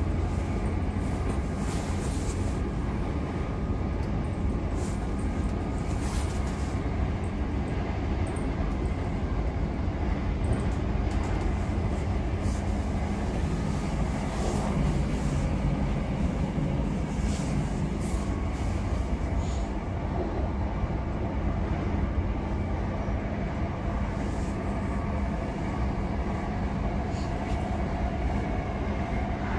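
Steady running noise of a c2c electric train at speed: a continuous low rumble of wheels on rails with a few faint clicks, and a low hum that swells about halfway through.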